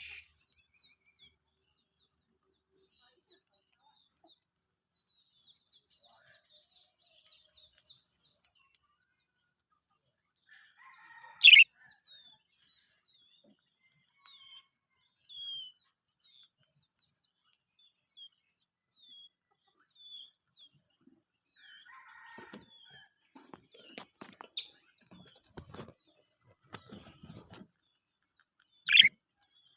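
Budgerigars chirping now and then, with a quick soft warble early on and two loud, sharp calls, one about a third of the way in and one near the end. In the second half a run of soft taps and rustles mixes with the chirps.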